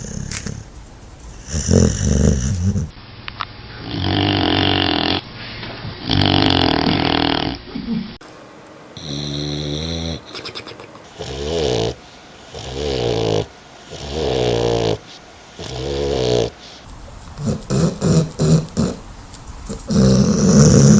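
A sleeping dog snoring: a string of separate snores, roughly one every one to two seconds, some with a wavering pitched tone. The recording changes character a few times, as if several snoring clips were joined.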